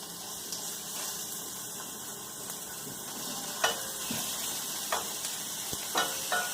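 Cubed chicken breast sizzling in a hot oiled skillet, a steady hiss, with a few sharp taps of a utensil against the pan in the second half.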